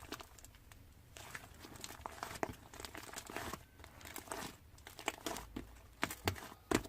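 Crinkling and rustling handling noises with many scattered small clicks, in a small room.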